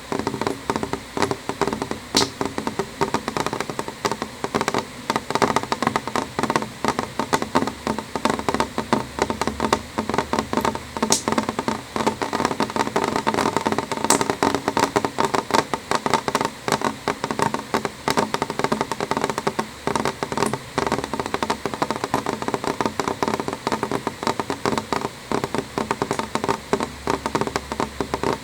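Rain striking a window pane, a dense steady tapping of drops on the glass heard from inside, with a few louder single clicks standing out now and then.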